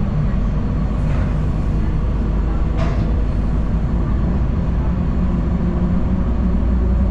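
Steady low rumble of a city transit bus's engine and road noise, heard from inside the passenger cabin, with a short hiss about three seconds in.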